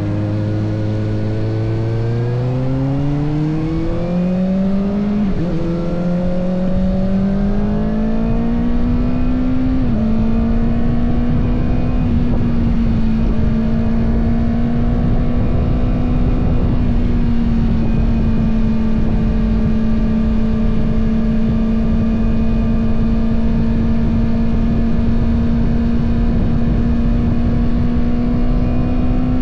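Kawasaki ZX-6R's inline-four engine accelerating through the gears, its pitch rising, with two upshifts about five and ten seconds in, then holding a steady note at cruising speed. Wind and road noise rush underneath.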